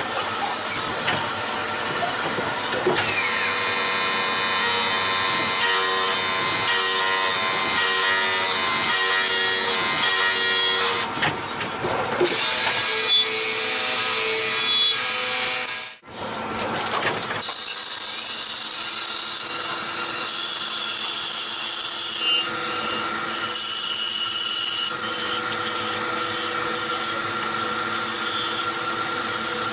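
CNC lathe turning a blind flange: steady machine running with several held whining tones from the cut. The sound drops out briefly just past halfway.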